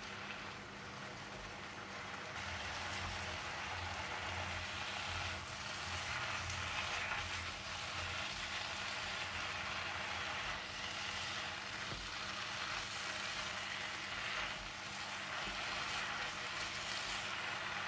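Spinach and fish balls sizzling in a frying pan over high heat as they are stirred with a silicone spatula: a steady, even hiss.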